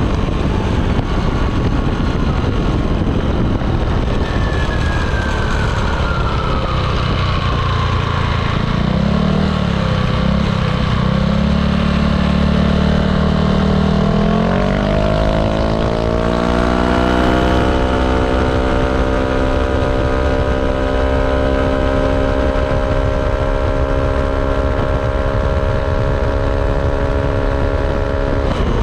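Yamaha Aerox 155 scooter's single-cylinder engine heard through a ROB1 aftermarket exhaust while riding, over a rush of wind and road noise. About halfway through, the exhaust note climbs in pitch as the scooter accelerates, then holds a steady drone at cruising speed.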